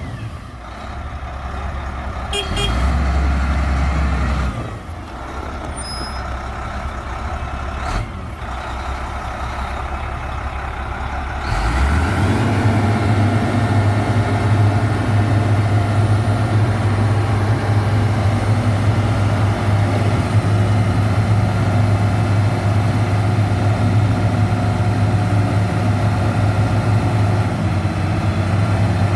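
Motor grader's heavy diesel engine running, picking up to a louder, steady higher speed about twelve seconds in and holding it.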